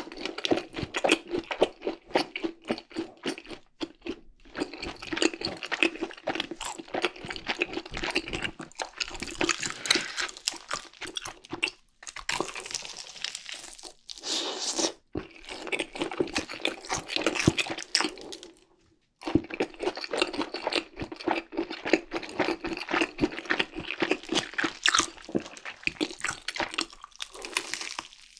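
Close-miked chewing and crunching of crispy fried chicken, dense crackling bites with a few short pauses.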